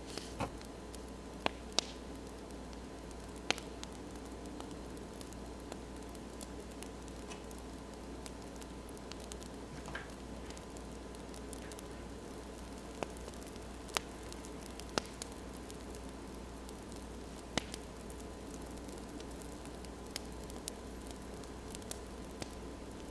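Crackling wood fire: a steady soft hiss with sharp pops at irregular intervals, a few of them louder.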